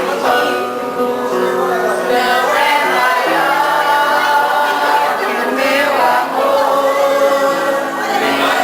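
A song sung by several voices with musical accompaniment, the voices holding long notes and moving from one pitch to the next.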